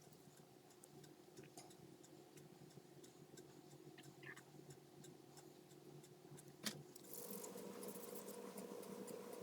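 Near silence: faint room tone with a few light ticks and one sharp click about two-thirds of the way in, after which a faint steady hum starts.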